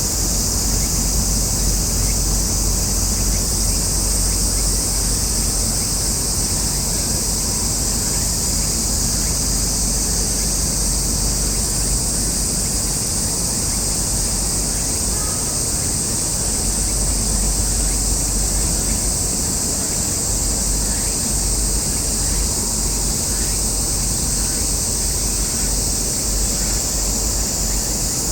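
Steady, high-pitched insect chorus, unbroken throughout, with a low rumble underneath.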